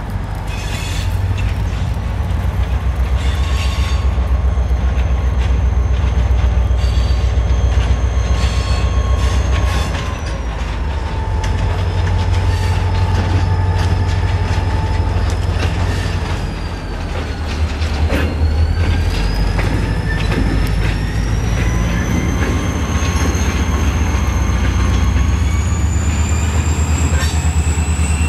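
Slow freight train rolling past: a steady diesel locomotive rumble under high, wavering wheel squeal that glides up and down, with scattered clicks from the wheels over the rails.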